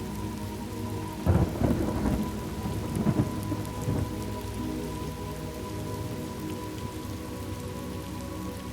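Steady rain with a thunderclap about a second in, rumbling in a few swells before fading back under the rain.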